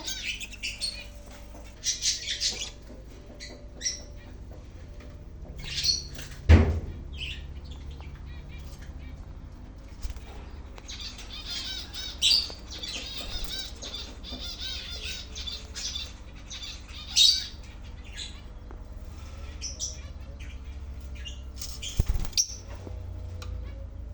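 Small pet birds chirping and squawking in short high-pitched bursts, with wings flapping. A loud thump comes about six and a half seconds in, and another sharp knock near the end.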